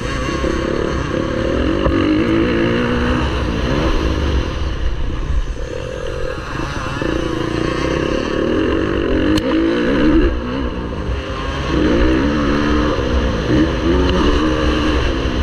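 Motocross bike engine at race pace, revving up and dropping off again and again as the rider accelerates and backs off through the track's sections. There is a single sharp click about nine seconds in.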